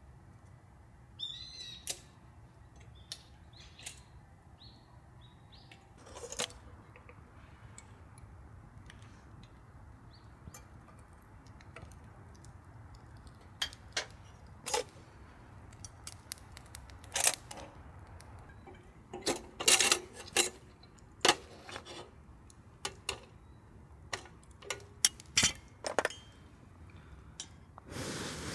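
A small bird chirps a few times in the first four seconds. In the second half, many sharp, irregular clicks and knocks follow, from handling something at camp.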